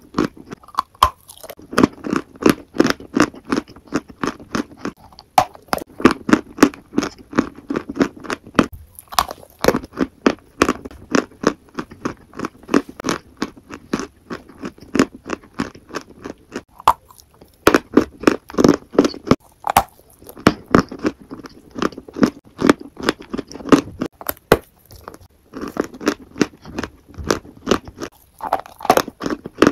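Mouth crunching and chewing a crumbly white chalky lump, many crisp crunches a second in runs with a few short pauses.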